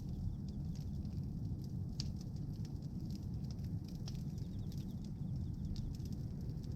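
Bonfire of pruned tree branches crackling, with scattered sharp pops, the strongest about two and four seconds in, over a steady low rumble.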